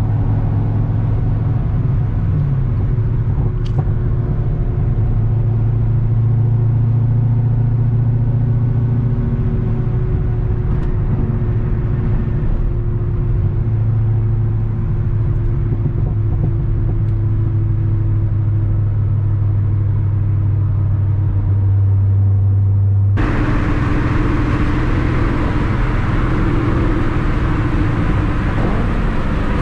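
Cammed C6 Corvette V8 running at a steady engine speed with a loud, even low drone. About 23 seconds in there is an abrupt cut to a brighter, noisier recording of the running car.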